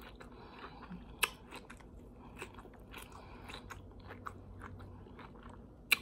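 Close-miked mouth sounds of a person chewing food: soft crunches and small wet clicks, with a sharper click about a second in and another near the end.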